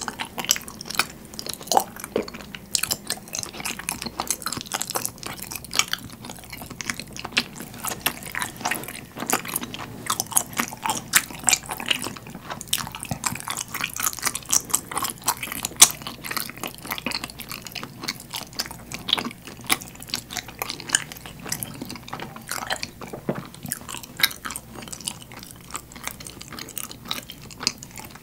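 A person chewing and biting chewy rice-cake dango glazed in sweet soy sauce: a dense, uneven run of small sharp mouth clicks and smacks.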